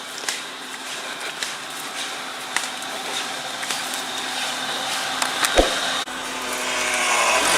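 SUV running and rolling slowly on a muddy forest dirt track while manoeuvring to turn around: a steady engine and tyre noise, with a single low knock about five and a half seconds in and the noise swelling near the end.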